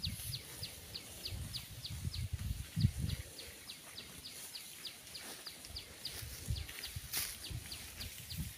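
A bird calling in a fast, even run of short high notes, each sliding downward, about three or four a second. Underneath is an uneven low rumble.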